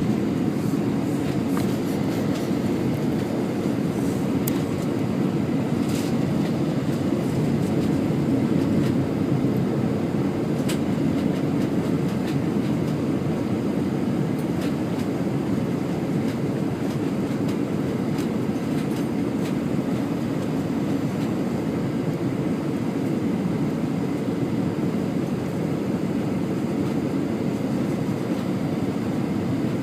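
Steady low rumble of engines and rushing air inside the cabin of an Airbus A320 in flight, with a few faint clicks.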